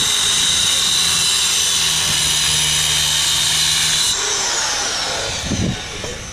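Power tool running loudly and steadily, switched off about four seconds in and winding down with a falling whine.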